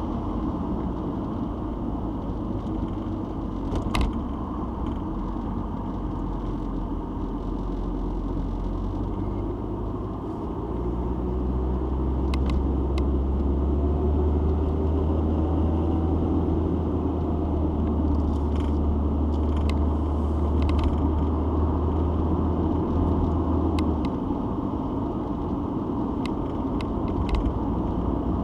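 Citroen XM being driven, its engine and road noise heard from inside the cabin as a steady low hum. About ten seconds in a deeper drone comes up and holds until a few seconds before the end, with a few faint clicks along the way.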